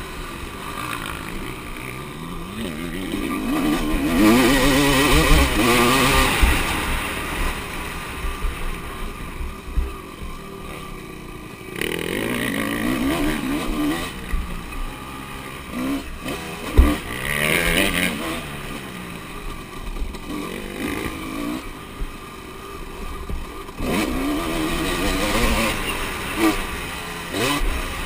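Motocross bikes' engines revving and passing in turn, pitch climbing and dropping through the gears as they accelerate and back off. The loudest pass comes about four seconds in, with others following every few seconds.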